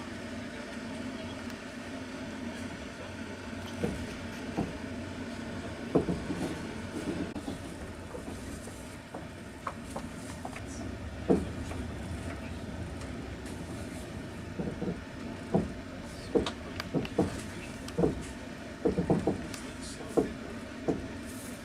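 Passenger train heard from inside the carriage: a steady running rumble, with the wheels clacking over rail joints. The clacks come as sharp knocks, scattered at first and then thicker in the second half, many in quick pairs and clusters.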